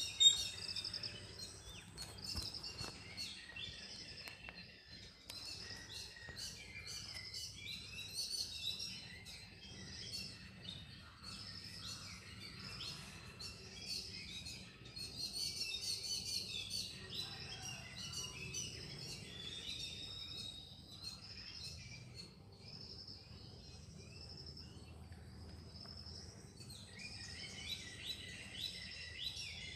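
Many birds chirping, a dense chorus of short, high, overlapping calls that thins out for a while and picks up again near the end, over a faint low hum.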